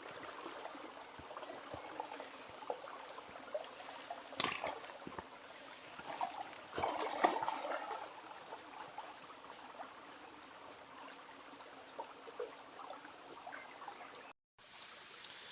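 A woodland stream trickling steadily, with scattered small clicks and a couple of brief louder rustles.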